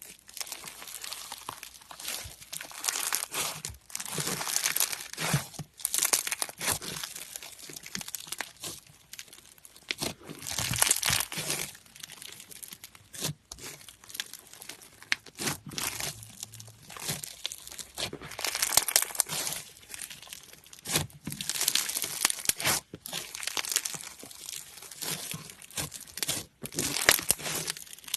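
Slime being squeezed, pressed and stretched by hand, giving irregular bursts of crackling and popping with sharp clicks.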